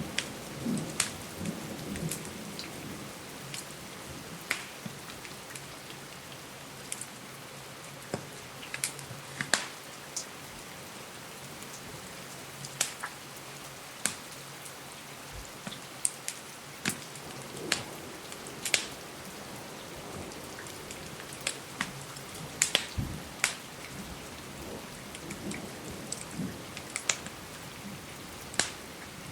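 Steady rain on a window, with a wood fire crackling and popping in irregular sharp snaps. A faint low rumble of thunder dies away in the first few seconds.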